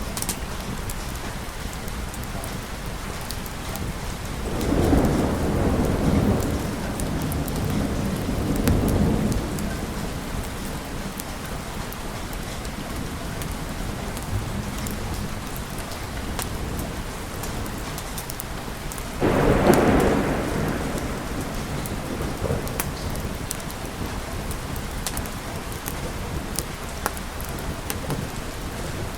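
Steady rain with a thunderstorm. A rolling rumble of thunder swells about five seconds in and rolls on for several seconds, and a sharper thunderclap comes about two-thirds of the way through and fades over a few seconds.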